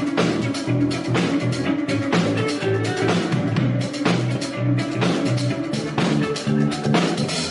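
Rock band playing a song: drum kit keeping a steady beat under bass and electric guitar.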